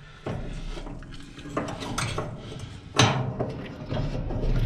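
Metal clinks and rattles as the dryer's motor idler pulley arm is unhooked and handled, with a sharper metal knock about three seconds in.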